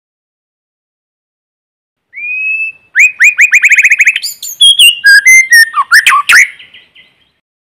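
White-rumped shama singing. After about two seconds of silence comes one drawn-out whistle, then a fast run of about ten repeated rising notes, then a jumble of varied clear whistled phrases that stop about a second before the end.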